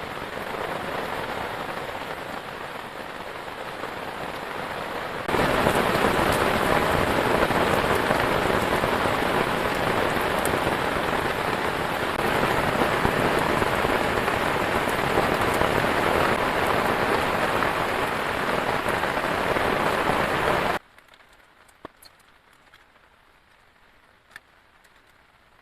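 Heavy rain falling, a steady hiss that gets abruptly louder about five seconds in. Near the end it cuts off suddenly, leaving a very quiet background with a few faint ticks.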